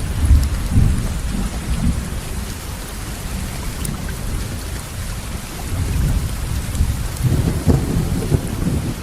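Steady rainfall with low, rolling rumbles of thunder beneath it. The rumble is strongest at the start, eases off in the middle, and swells again near the end.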